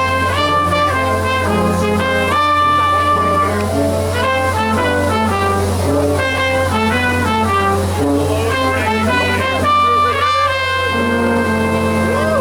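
Brass instruments, trumpets and trombones, playing a tune in held, changing chords over a steady low hum.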